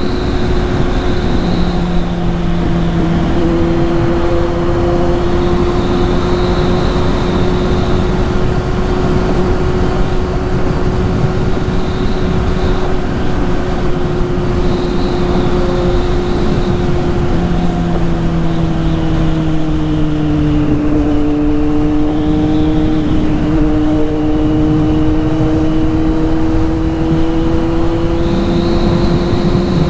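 Kawasaki Z800's inline-four engine running loud through a straight-through exhaust, holding a steady pitch that dips slightly about twenty seconds in.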